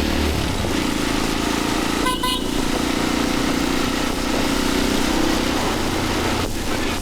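Motorcycle engine running steadily on the move in traffic, with a short vehicle horn toot about two seconds in.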